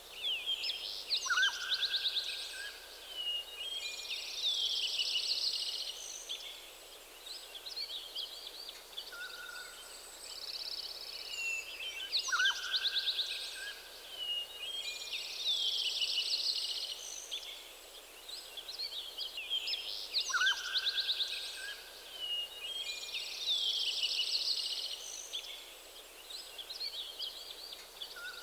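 Several songbirds singing in a forest: a chorus of high chirps and trills, with a lower whistled call that recurs every several seconds.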